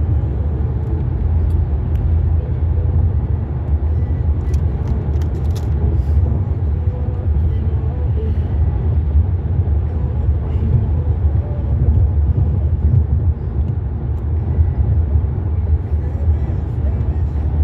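Union Pacific grain train rolling past: a steady low rumble, with a few faint clicks about four to six seconds in.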